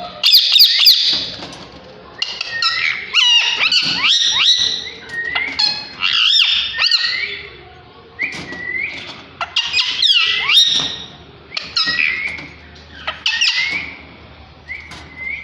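A pair of ring-necked parakeets calling: repeated bursts of shrill squawks and chirps with quick up-and-down pitch slides, a new burst every second or two.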